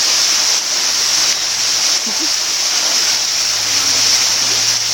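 Waterfall rushing: a steady, even hiss of falling and splashing water.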